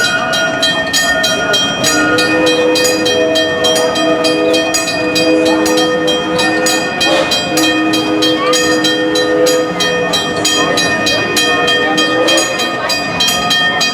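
Steam train running, with a quick even beat of about four strokes a second and several steady ringing tones held over it for most of the stretch.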